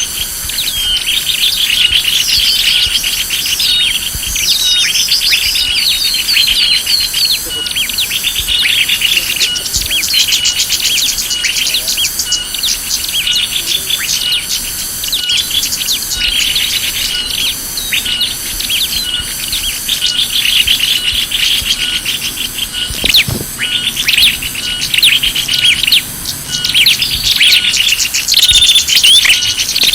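Dense, unbroken chirping and twittering of many small birds, a bird-lure call track for attracting small birds, with a faint even pulsing beneath the calls.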